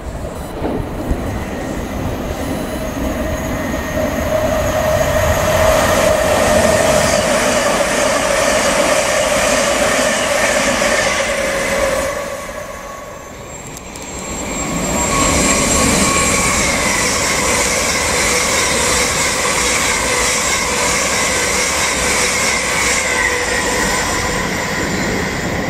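Trains passing through a station at speed, with loud rolling noise and a steady whine. The noise dips about halfway through, then swells again with a higher-pitched whine.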